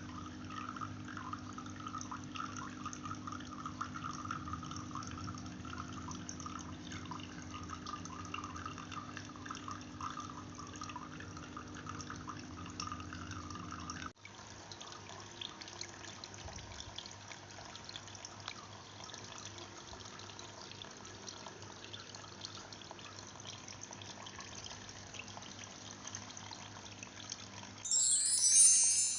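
Water trickling and splashing in a small tabletop waterfall fountain, a steady running-water sound that changes abruptly about halfway through. Near the end a much louder, bright chiming starts.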